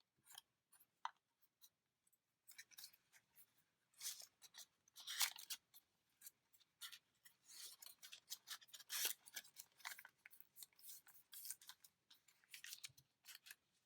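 Faint, irregular crinkling and rustling of origami paper being handled, loosened and creased by hand.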